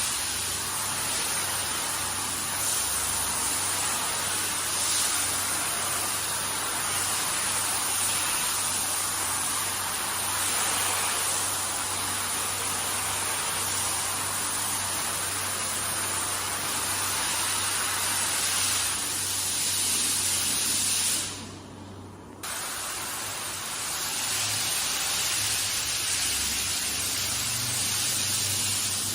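Handheld car-wash pressure sprayer jetting water onto a carpet: a steady hiss over a low motor hum. It breaks off for about a second about three-quarters of the way through, then carries on.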